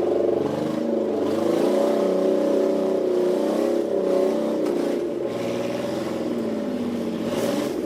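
Nissan Pathfinder's engine revving and straining under load as it tows a car on a chain, its pitch rising and falling several times.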